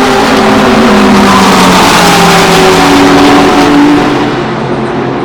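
Racing cars passing close at speed, their engine notes falling in pitch as they go by. A second car's note rises and falls from about two and a half seconds in, and the sound drops away after about four seconds.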